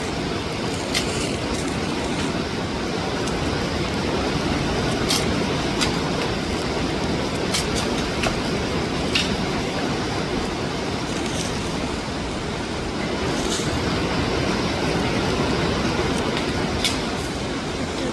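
Water rushing steadily over rocks, a waterfall's constant roar, with a few brief sharp clicks scattered through it.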